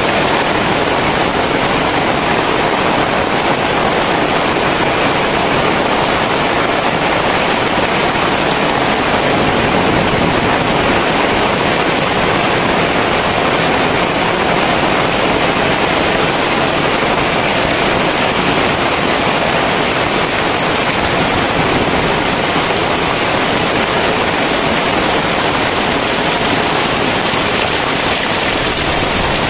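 Very heavy rain pouring down as a dense, steady hiss with no letup.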